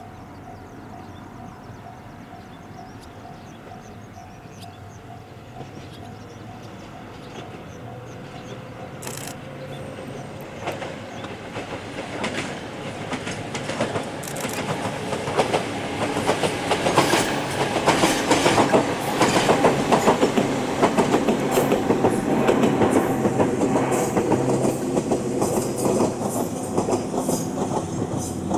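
Ohmi Railway two-car electric train set 809F passing: its running noise builds from about eight seconds in, is loudest a little past the middle with a rapid clatter of wheels over rail joints, then eases slightly as it moves away.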